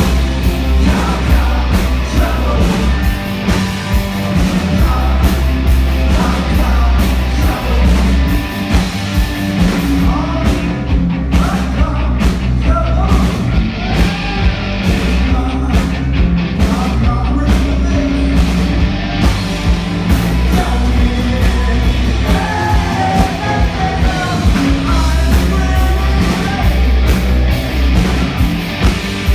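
Live rock band playing loud, with a heavy bass and drum low end under a sung lead vocal.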